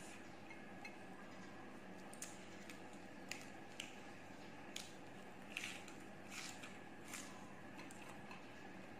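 Faint eating sounds: a person chewing fried chicken wings, with about a dozen soft mouth clicks and smacks, the loudest about five and a half seconds in, over a steady faint hum.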